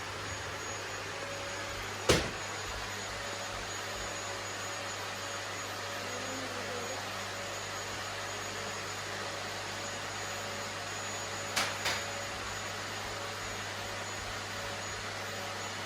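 Household vacuum cleaner running steadily. There is one sharp knock about two seconds in and two smaller knocks in quick succession near the end.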